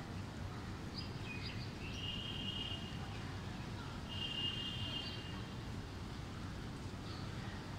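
Steady noise of heavy rain over a street. A bird gives a few high chirps about a second in, then two held high calls of about a second each.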